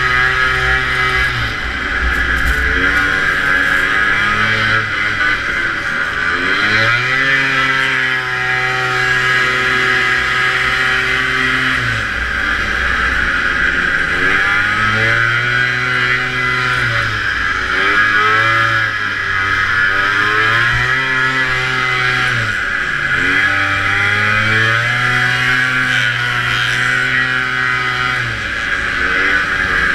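Vintage two-stroke snowmobile engine racing at speed, its pitch climbing, holding and dropping again every few seconds as the throttle is opened and closed.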